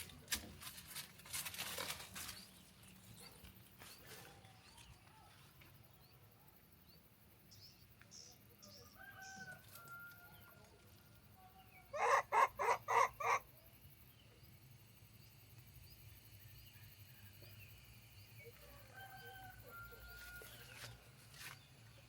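Chickens calling: a quick run of about six loud clucks about twelve seconds in, with fainter short calls before and after.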